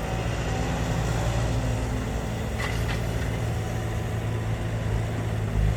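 Dump truck's diesel engine running steadily with a low hum. A brief faint squeak sounds about two and a half seconds in.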